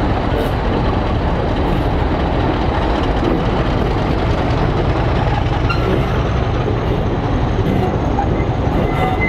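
Train of BR Mark 1 passenger coaches rolling past on the rails: a steady, loud rumble of wheels and bogies on the track.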